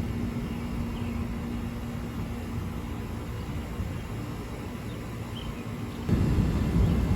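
Low rumbling of thunder from a severe thunderstorm, growing louder about six seconds in, with a few faint chirps above it.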